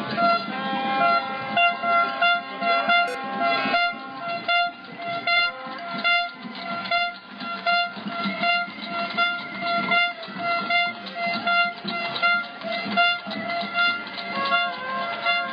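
Protest noise-makers: horns blowing long held notes over fast, continuous banging and drumming.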